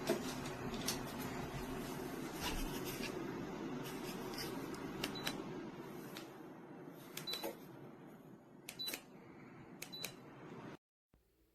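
Electric wall heater's fan running with a steady whir that fades away about halfway, with several clicks and a few short high beeps from its controls.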